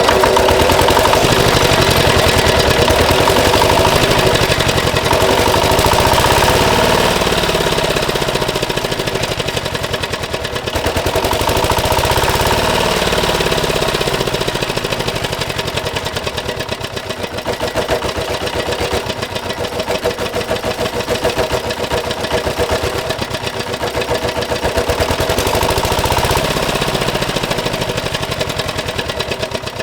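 Small diesel engine running with a fast, even knock. Its loudness swells and eases a little now and then.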